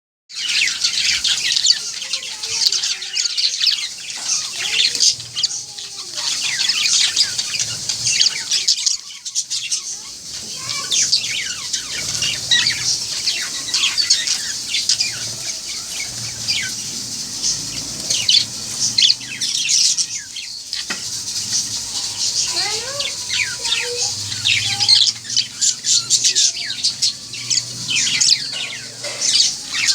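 Several pet parrots chattering and chirping, with many short, high calls overlapping continuously and a couple of brief lulls.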